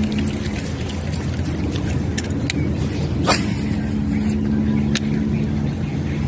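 A steady motor hum with a few sharp clicks, the strongest about three seconds in.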